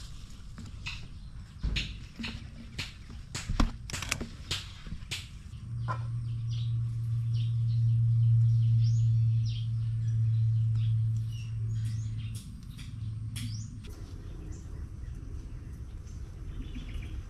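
Small birds chirping in short high calls, over a run of sharp clicks in the first few seconds and a steady low hum that comes in about six seconds in and stops about eight seconds later.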